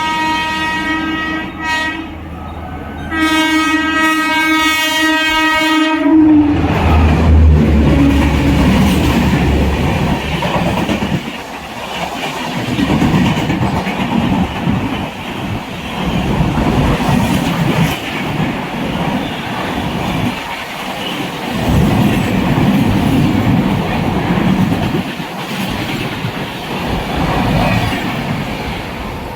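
Indian Railways WAP-4 electric locomotive sounding its horn twice, a short blast then a longer one of about three seconds. The express train then speeds past with loud rumble and rhythmic wheel clatter over the rail joints.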